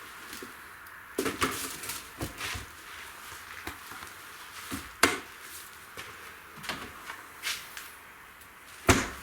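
Irregular light clicks and knocks, with a sharper knock about five seconds in and another near the end.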